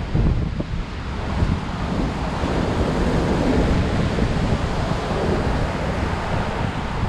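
High surf breaking and washing on a beach, with strong wind buffeting the microphone in heavy low rumbles. The surf swells louder about halfway through.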